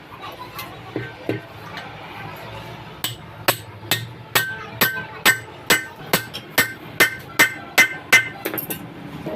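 Hammer striking metal: a few scattered knocks, then from about three seconds in a steady run of about a dozen ringing blows, a little over two a second.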